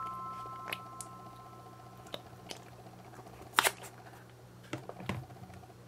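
Soft clicks and taps of hands handling a silicone ice-pop mold, the loudest a quick double tap about three and a half seconds in, over a faint low hum. A chime note fades out during the first two seconds.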